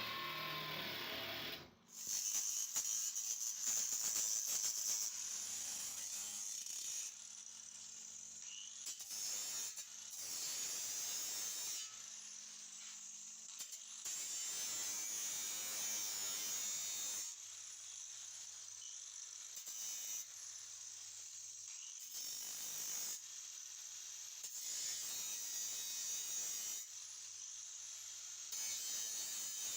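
A small electric power tool running at high speed and grinding or cutting, heard in short stretches that start and stop abruptly every few seconds.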